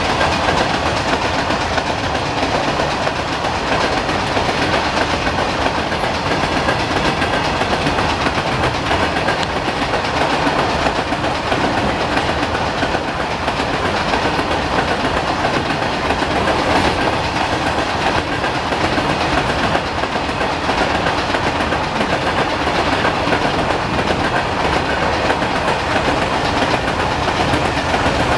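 A long freight train's open-top wagons rolling past on the rails, their wheels keeping up a steady, loud clickety-clack and rumble with no break or horn.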